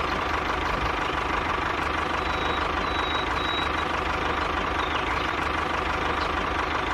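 Miniature tractor's small engine running steadily at idle.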